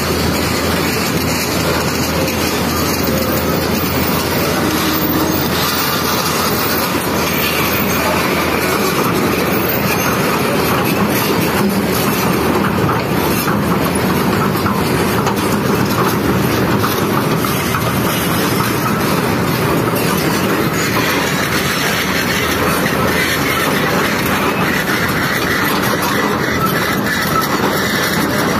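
Semeru cold lahar (volcanic mudflow) rushing down its channel: a loud, steady roar that does not let up.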